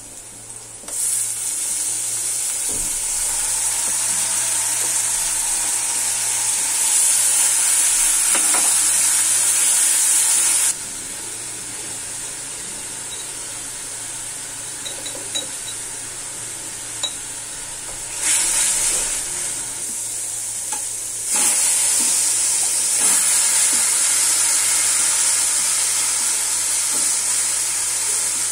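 Onions and spices sizzling in hot oil in a metal kadai, with a spatula stirring and scraping against the pan in small clicks. The sizzle falls quieter for a stretch in the middle and then comes back louder. A steady low hum runs beneath.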